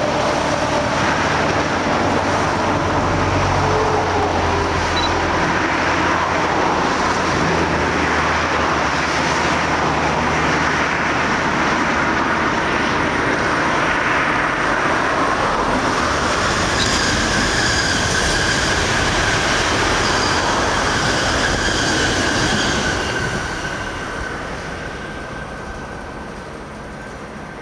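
E6 series Akita Shinkansen train running along conventional track, a steady loud rumble and rattle of wheels on rail with a thin high whine in the later part, falling away over the last few seconds.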